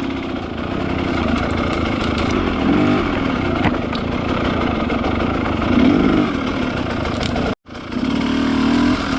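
Two-stroke enduro motorcycle engine running and revving up and down as the bike is ridden off-road, with a momentary dropout a little past seven seconds in.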